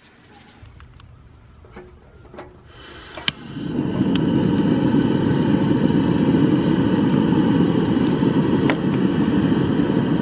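Portable camp stove's gas burner lit with a click about three seconds in, then burning with a steady, loud rushing noise.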